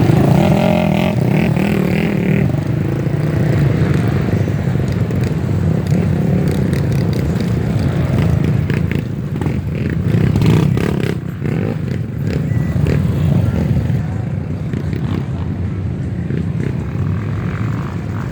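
Off-road trail motorcycle engines running steadily, with scattered knocks and scrapes around the middle.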